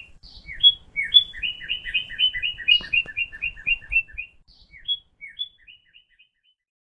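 A bird calling in quick runs of short, sharp chirps, about four a second, which thin out to a few scattered notes and stop about six seconds in.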